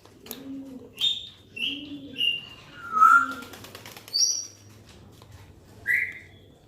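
Birds calling: a low coo repeated roughly once a second through the first half, with short chirps and whistled notes at varying pitches on top, the loudest about three seconds in.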